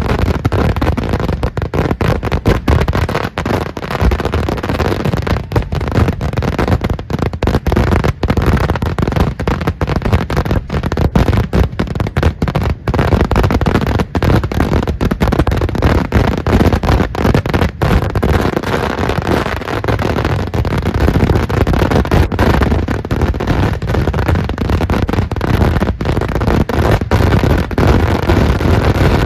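Kerala temple-festival daytime fireworks (vedikettu): firecrackers going off in a dense, unbroken barrage, bang upon bang without a pause.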